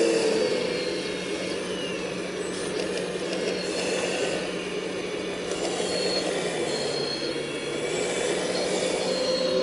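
Full-size excavator's engine and hydraulics working, a steady mechanical drone with high whining tones that come and go.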